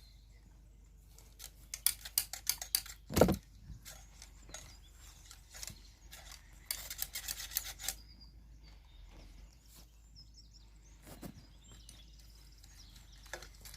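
Small hard objects being handled: a quick run of light clicks and clinks, a single heavier knock just after three seconds, then another brief flurry of clicks around seven seconds.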